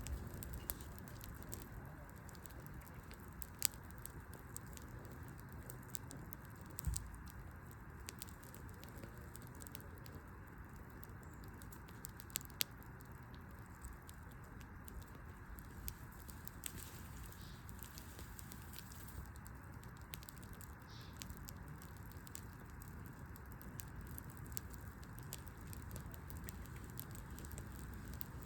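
Wood fire burning with a steady low rush and sparse sharp crackles and pops, the loudest pops about three and a half seconds in and twice in quick succession about twelve seconds in.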